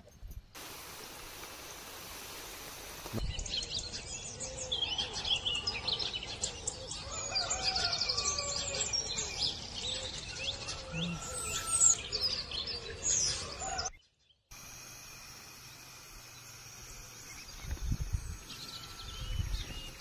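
Several birds singing and chirping together, a busy run of quick calls that cuts off suddenly about two-thirds of the way in, with steady outdoor background noise either side and a couple of low thuds near the end.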